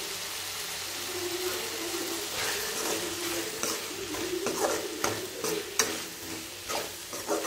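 Onion-and-tomato masala sizzling in a metal pan while a perforated steel ladle stirs it, scraping against the pan in quick repeated strokes from about two seconds in. The masala is being fried down to a paste.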